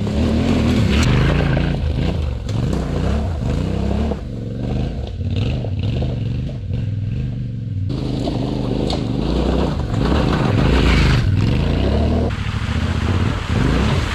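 Yamaha Ténéré 700's parallel-twin engine revving up and down as the motorcycle rides off-road, with knocks and clatter over the ground. The engine eases off from about four seconds in and picks up again about eight seconds in.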